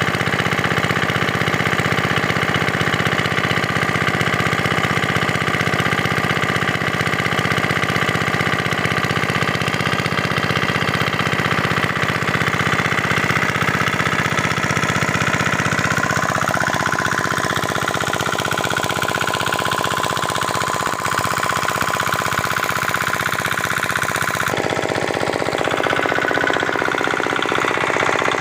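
Old diesel engine running steadily as it drives a water pump, with a rapid, even knocking beat.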